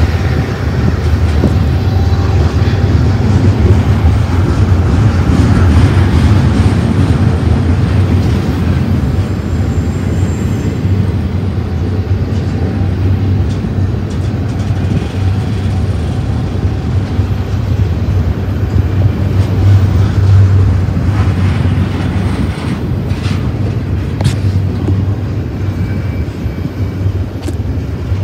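Double-stack container well cars of a freight train rolling past at close range, a steady heavy rumble of wheels on rail, with a few sharp clicks from the wheels near the end.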